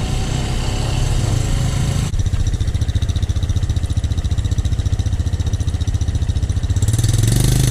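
Small single-cylinder off-road engine running at low revs with an even putting beat. A hiss drops away abruptly about two seconds in, and the engine picks up slightly near the end.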